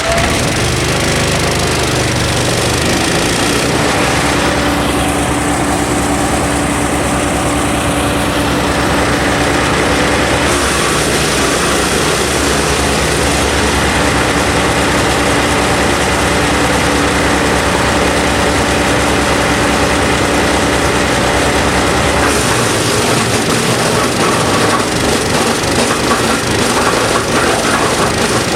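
KNDMAX GC156 disc wood chipper running loud and steady on its small petrol engine, with broad noise over the engine. The sound shifts around 4–10 s in and again about 22 s in, as the load changes.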